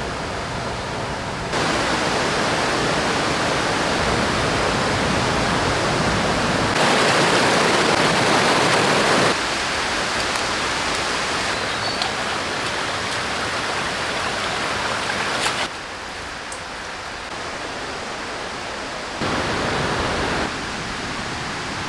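Rushing water of a mountain river, a steady loud hiss. Its loudness and tone jump abruptly several times.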